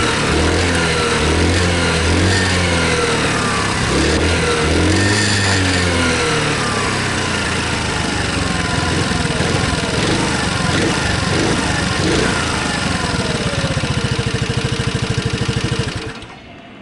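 Motorcycle and scooter engines in road traffic, revving up and down so the pitch rises and falls again and again; the sound cuts off suddenly near the end.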